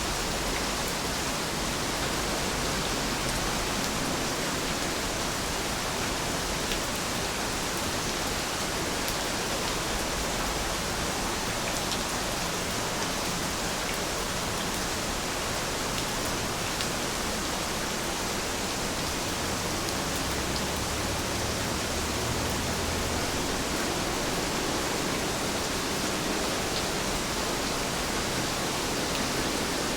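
Steady, dense rain falling: an even hiss of many drops with faint individual drop ticks.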